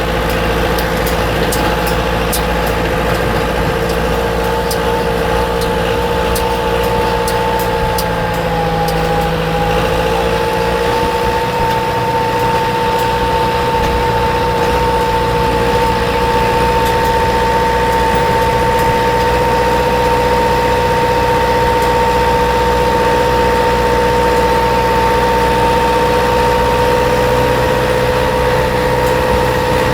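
Tractor engine running at a steady speed, its pitch dipping briefly about nine seconds in, over a low rumble.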